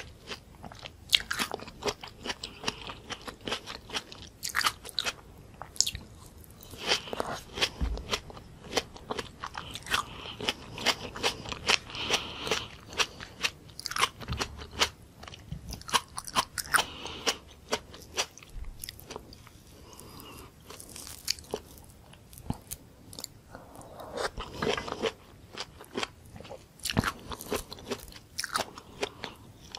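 Close-miked chewing of raw tomato, with many irregular sharp mouth clicks.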